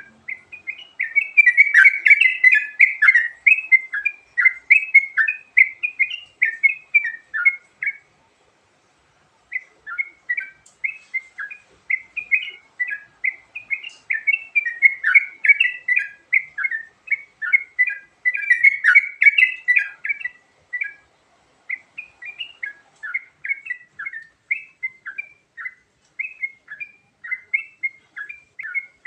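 Yellow-vented bulbul (trucukan) song: fast runs of bubbly chirping notes. There is a pause of about a second and a half some eight seconds in.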